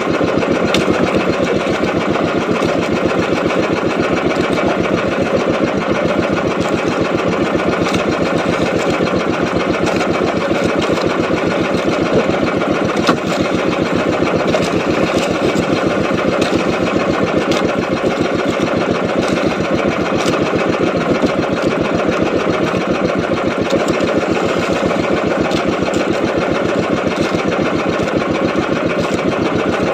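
Small boat engine running steadily at constant speed, a fast even putter.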